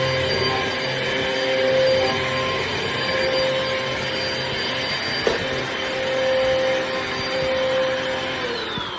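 Amazon Basics upright bagless vacuum cleaner running steadily, with a single click about halfway through. Near the end its motor pitch falls as it winds down.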